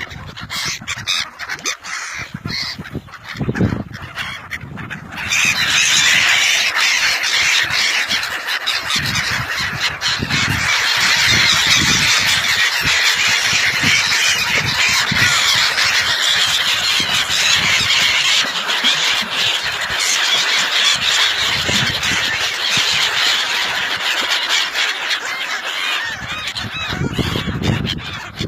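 A large flock of waterbirds calling all at once, many overlapping calls in a dense chatter. The chatter jumps up sharply about five seconds in, after a sparser start.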